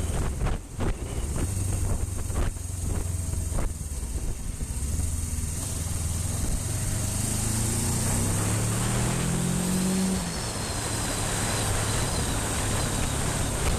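Motorcycle engine pulling under acceleration, its pitch rising steadily for about five seconds and then dropping off abruptly about ten seconds in, as at a gear change or closing the throttle. Heavy wind buffeting on the action camera's built-in microphone runs under it, gustiest in the first few seconds.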